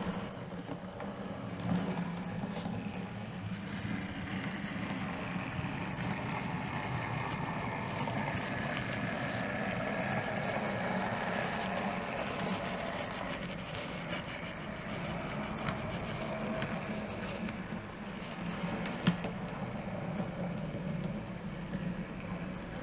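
OO gauge model locomotive running on the layout, its DCC sound decoder playing a steady engine sound that swells and eases off through the middle. A single sharp click comes near the end.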